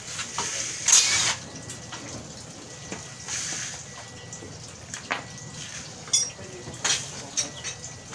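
Metal hand tools and parts clinking and tapping during mechanical work, in separate sharp clinks. The loudest comes about a second in, and there is a short quick rattle a little after six seconds.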